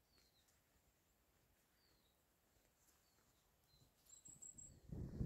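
Near silence with faint bird calls: short, high descending chirps about once a second, and a quick run of very high notes about four seconds in. A low rumbling noise rises near the end.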